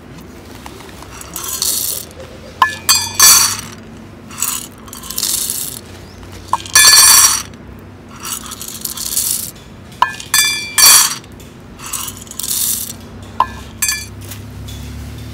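Small hard items of camp gear being handled: clinking and rattling in about a dozen short bursts, several starting with a sharp click.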